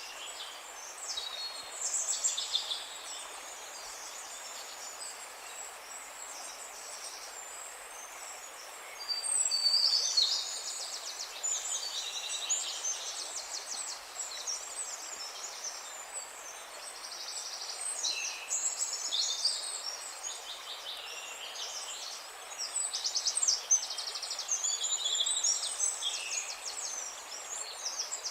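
Songbirds singing in repeated high chirps and rapid trills, in several bouts, the loudest about a third of the way in and again near the end, over a steady background hiss.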